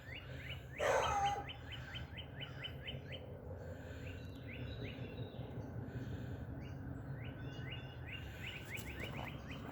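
Wild birds singing: runs of short, quickly falling chirps repeated several times a second, coming and going, over a steady low rumble. A brief louder sound comes about a second in.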